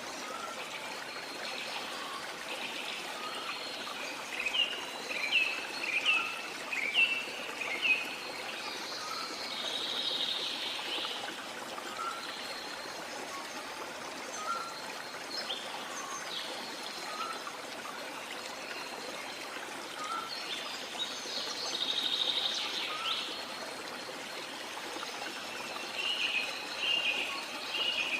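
Small birds chirping and trilling over a steady rush of water. A run of five or six quick chirps comes about five seconds in, longer trills near ten and twenty-two seconds, and more chirps near the end.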